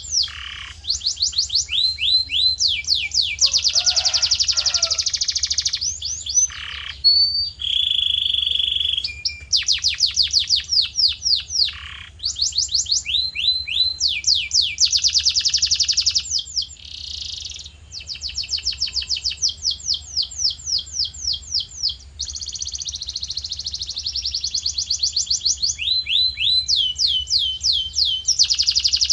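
Male canary singing a long song of rapid rolling trills, each a fast run of repeated notes sweeping down in pitch, broken by short pauses. About eight seconds in it holds one steady whistled note. A faint low hum runs underneath.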